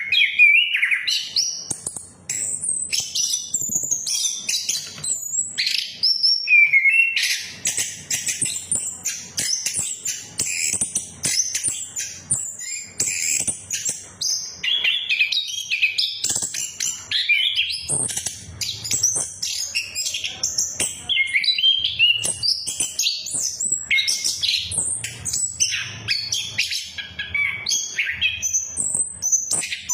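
Chestnut-capped thrush (anis kembang) singing a fast, continuous song of varied chirps, trills and whistles, with only brief pauses.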